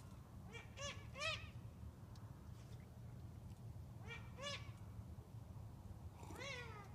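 Unidentified animal giving short pitched calls. Each call rises and then falls in pitch: three come in quick succession, two more follow about four seconds in, and a longer call sliding downward comes near the end. A steady low rumble of background noise runs underneath.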